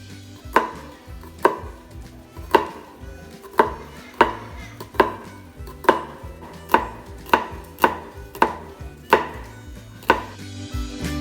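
Knife chopping food on a cutting board in slow, single strokes, about a dozen evenly paced cuts.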